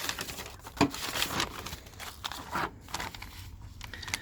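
Irregular rustling and handling noises, crackles and light scrapes, with the loudest near a second in and again past two and a half seconds.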